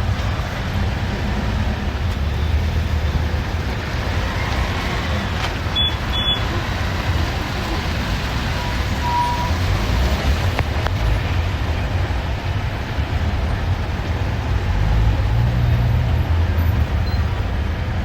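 Steady low rumble of a bus's engine and road noise, heard from inside the moving bus. Two short high beeps sound about six seconds in, and a brief tone a few seconds later.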